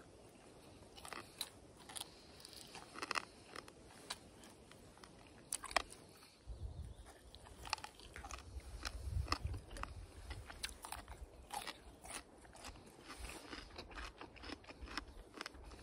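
A person biting and chewing food close to the microphone: a string of crunches and wet clicks, with a low rumble under the second half.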